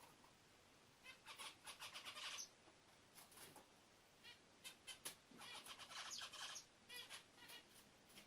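Bulbul giving faint, rapid series of high chirps in two bursts, about a second in and again past the middle, with a few short single calls between.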